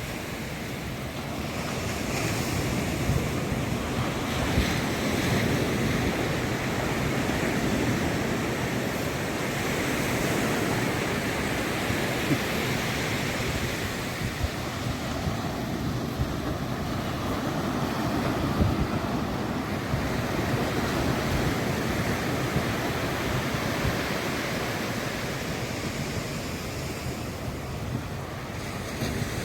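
Pacific surf breaking and washing up the beach in slow swells, with wind buffeting the microphone.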